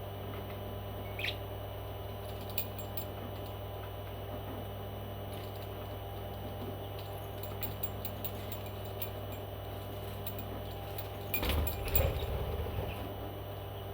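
Pet parrot giving a single short chirp about a second in, with scattered faint clicks over a steady low hum. Near the end comes a short, louder burst of scuffling.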